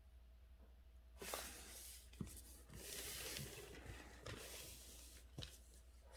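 Calligraphy brush writing on paper: soft swishing strokes with a few light taps, starting about a second in, over a faint steady low hum.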